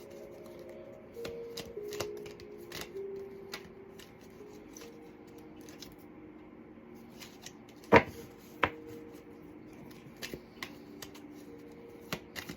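Oracle cards being shuffled and handled, a run of soft irregular card clicks and flicks. About two-thirds of the way through come two sharp taps, the first the loudest sound. Soft, slow background music notes sound underneath.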